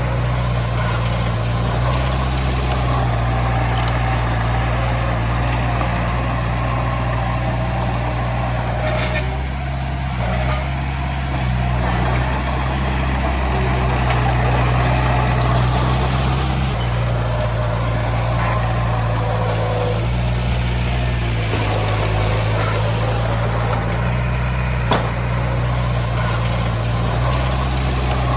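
Diesel engine of heavy earthmoving machinery running steadily under work, its low drone swelling and easing slightly, with a few sharp clanks.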